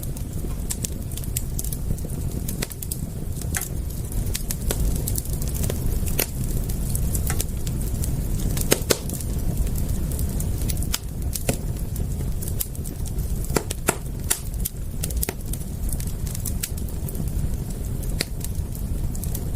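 Crackling wood fire: irregular sharp pops and snaps, some in quick clusters, over a low steady rumble.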